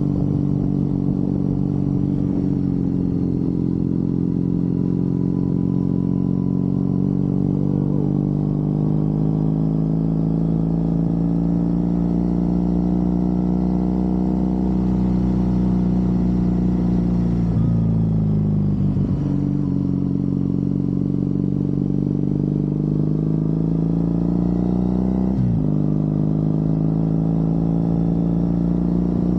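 Triumph Bonneville parallel-twin motorcycle engine pulling on the open road. Its revs climb slowly, dip and recover about two-thirds of the way through, then drop sharply and climb again near the end.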